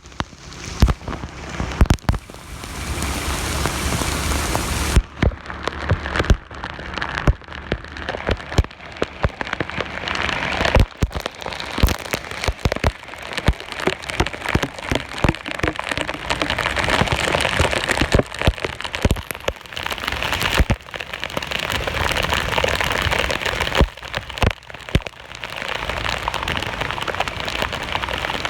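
Heavy rain pouring down, a steady wash of noise with many sharp, close raindrop hits scattered through it.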